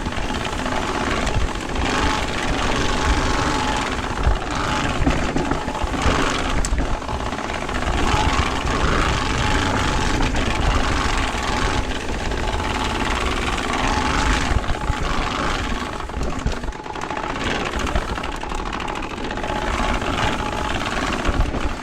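Mountain bike fitted with a Turbospoke exhaust, riding down a trail. Its plastic card flaps against the spokes in a fast, continuous rattling buzz, mixed with tyre and trail noise.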